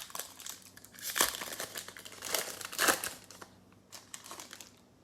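Crinkling and rustling of trading-card packs and cards being handled, in irregular bursts that die down after about three and a half seconds, leaving a few faint clicks.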